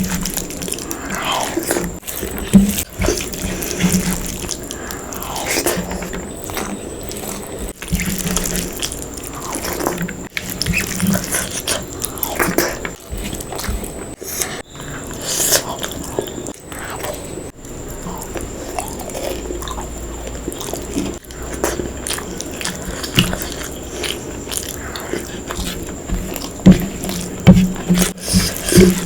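Close-miked eating: a person biting and chewing food in an irregular run of short mouth sounds.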